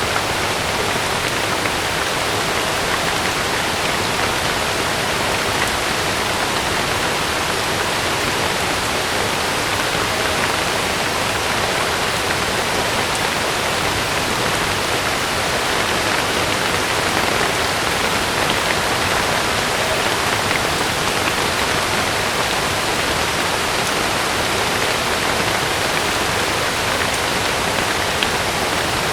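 Heavy rain falling steadily on a camping tent, an even, unbroken hiss.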